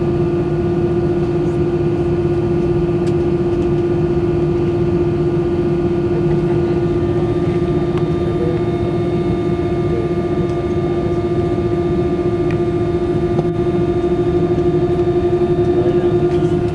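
Steady cabin drone of an Airbus A320-200 airliner in flight: engine and airflow noise with a constant hum, unchanging throughout.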